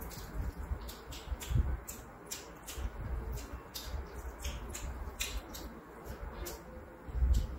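Close-miked eating sounds: chewing with irregular wet mouth clicks and lip smacks as a mouthful of rice and curry is eaten by hand, with a couple of low thumps.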